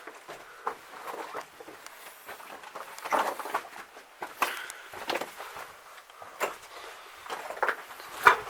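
Footsteps crunching and scuffing on loose rock and gravel, in an uneven series of short crunches, the loudest near the end.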